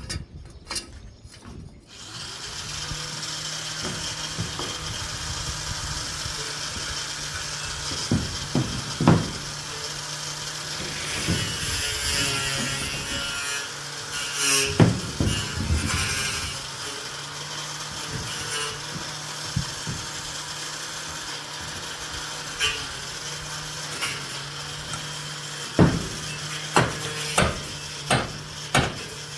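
Construction site work sounds: a steady running power tool or machine with scattered knocks and clanks, several in quick succession near the end.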